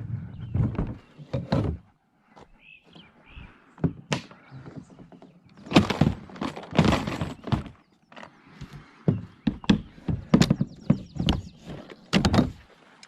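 Irregular clunks and knocks on a kayak's hull, coming in clusters: a couple near the start, a dense run about halfway through, and more near the end.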